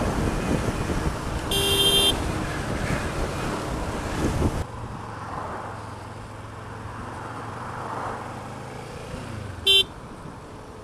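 Motorcycle riding noise in traffic, engine and wind on the helmet camera, with a vehicle horn sounding once for about half a second. About halfway through the noise drops suddenly to a quieter steady engine hum, and the horn gives one more short beep near the end.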